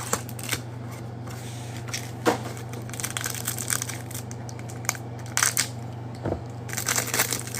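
Trading card packs and hanger boxes being handled and opened: scattered crinkling, tearing and light cardboard clicks, busier in the second half, over a steady low hum.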